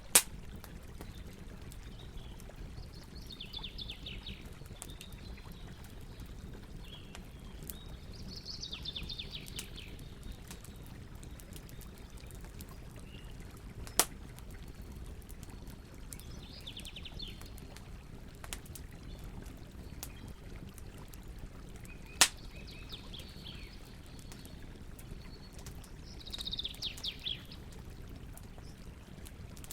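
Campfire burning with a steady low rush and scattered crackles, with three loud sharp pops. Birds sing short trilled phrases every few seconds.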